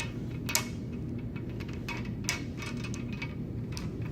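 Steady low background hum with a few scattered sharp clicks, one about half a second in and one a little past two seconds.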